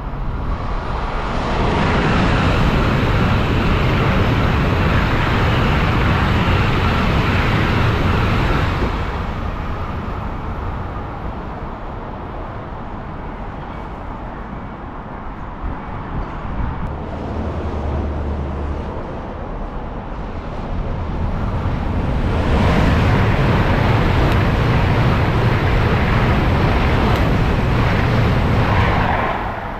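Two high-speed trains passing through a station at line speed, each a loud rushing roar of wheels on rail and air. The first builds about a second in and fades after about eight seconds. The second, a Eurostar, builds from about 22 seconds and drops away sharply just before the end.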